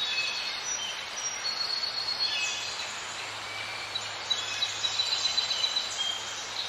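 Outdoor ambience: birds chirping in many short, high notes over a steady hiss, with a run of short, sharp sounds in the second half.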